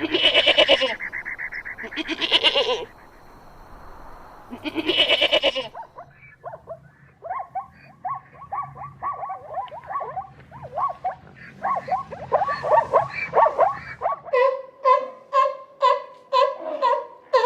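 Animal calls in three runs. First come three loud bleating calls. Then a long stretch of quick, chattering chirps. Near the end an evenly paced series of pitched calls begins, about two a second.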